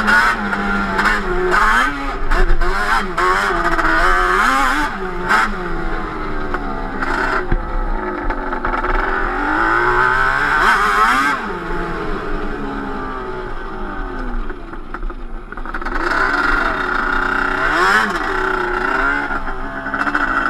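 Yamaha Banshee 350 twin-cylinder two-stroke ATV engine with Toomey T5 pipes, revving up and dropping back again and again under riding load, with sharp clicks through it. About two-thirds of the way in it settles lower for a few seconds, then revs hard again.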